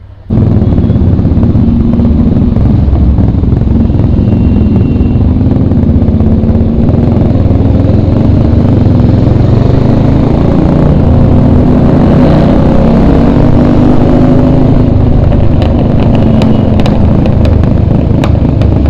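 Several Royal Enfield motorcycles running together as they ride off, their engines revving and overlapping, with a few sharp clicks near the end.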